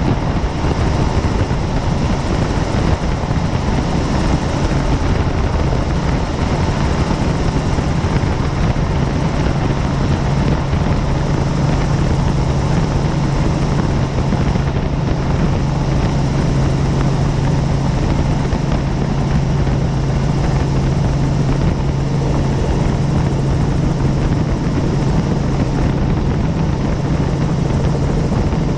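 Helicopter in flight: the steady noise of its rotor and engine, with a constant low drone that does not change.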